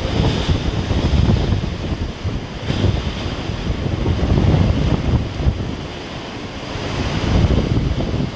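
Hurricane winds gusting hard and buffeting the microphone in a low, heavy rush; the gusts ease briefly about six seconds in, then build again.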